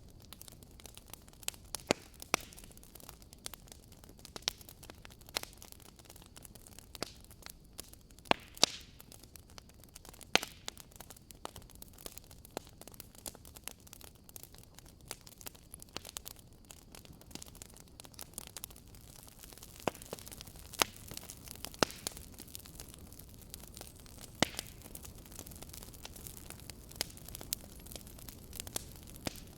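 Campfire crackling: irregular sharp pops and snaps of burning wood over a soft steady hiss, with a few louder pops scattered through.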